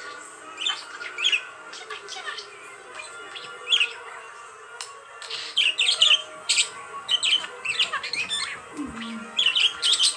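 Budgerigar chattering: a run of quick scratchy chirps and squawks, busiest in the middle and again near the end.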